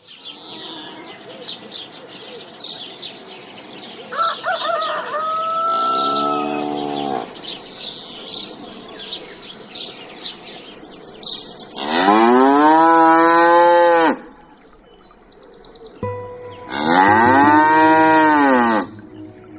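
Two long animal calls, each about two seconds, rising then falling in pitch, with a shorter call about five seconds in and birds chirping through the first half.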